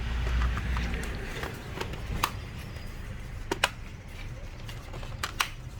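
A few sharp clicks and taps of small hard parts or tools being handled on a workbench, two of them coming as quick pairs, over a steady low hum.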